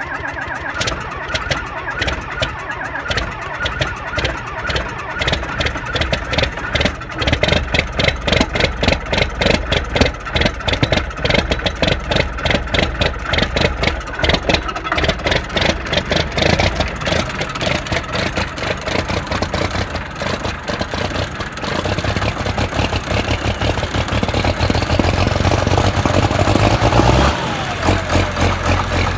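Old truck engine running unevenly just after a cold start, with a fast pulsing beat. Near the end it is revved up, rising in pitch, then drops suddenly to a steadier idle. The owner says the engine is worn, with blow-by, and due for an overhaul.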